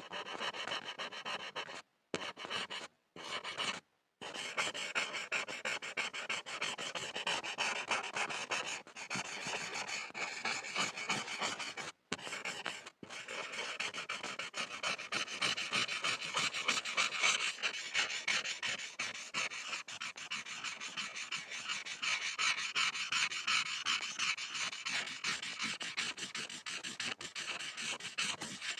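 Pencil lead scribbling on a board: continuous rapid scratchy strokes, broken by brief pauses a few times in the first third.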